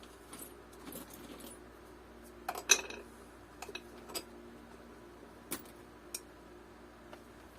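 A few scattered small metallic clicks and clinks of nuts and washers being handled, the loudest about two and a half seconds in.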